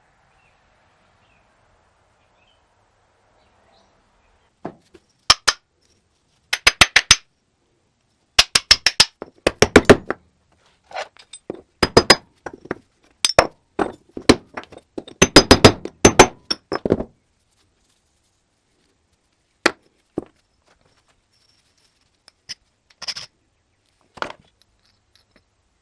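Quick clusters of sharp metallic clicks and clinks from hand tools working on small metal parts, dense for about twelve seconds and then thinning to a few scattered taps.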